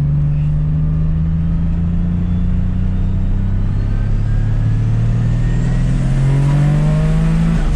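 Single-turbo Dodge Stealth's 3.0-litre V6 pulling under part throttle, its pitch climbing steadily, then dropping near the end as the throttle comes off or it shifts. A faint rising whistle sits above the engine.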